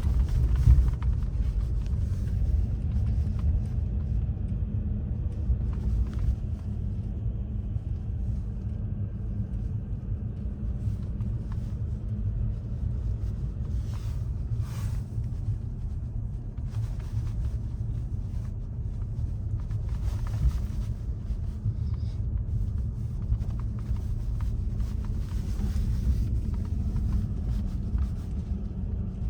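Steady low rumble of a vehicle driving, with a few brief hissing swells, about a third of the way in, two-thirds in and near the end.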